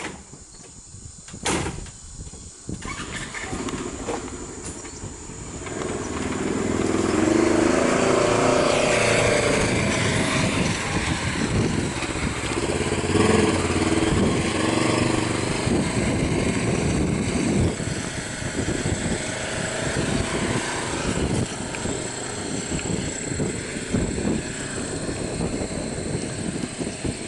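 A motor vehicle engine running, building up from a few seconds in and staying loud, with its pitch rising and falling.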